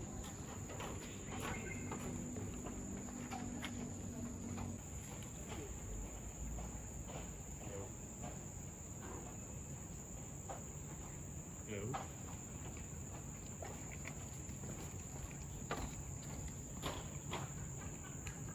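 Steady, high-pitched drone of an insect chorus in tropical forest, with scattered footsteps.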